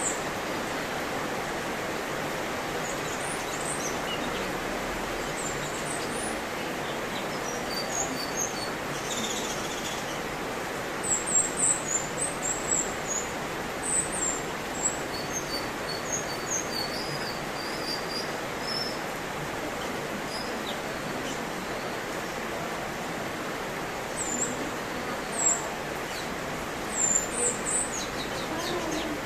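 Cucak cungkok singing: short, high chirps and whistles in scattered phrases, busiest in two spells, over a steady background hiss.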